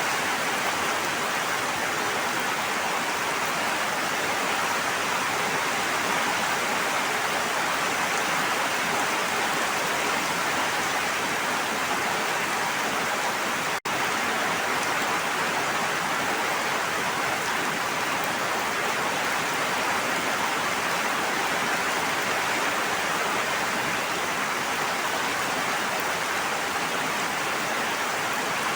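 Steady rainfall: a continuous, even hiss of rain with no distinct drops standing out. It cuts out for an instant about halfway through, then carries on unchanged.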